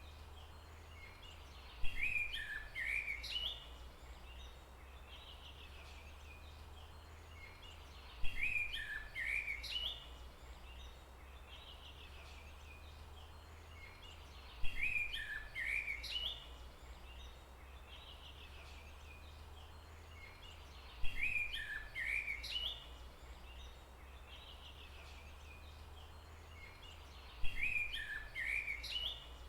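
A bird's short, quick chirping phrase, repeated five times at even intervals about six seconds apart, over a steady low background hum.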